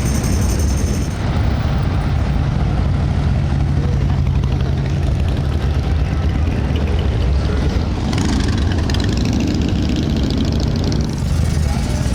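Motorcycle engines running on a busy street, a steady low drone with the hubbub of people mixed in.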